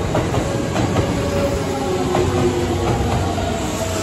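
Kintetsu electric commuter train running past the platform: a steady low rumble with repeated wheel clacks over the rail joints and a thin whine held for a second or two near the middle.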